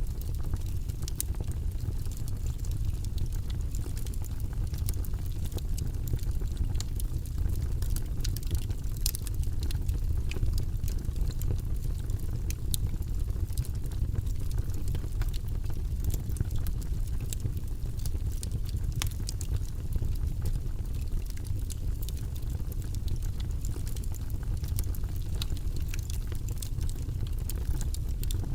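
Log fire burning in a fireplace: a steady low rush of flame with frequent sharp crackles and pops from the burning wood, scattered irregularly.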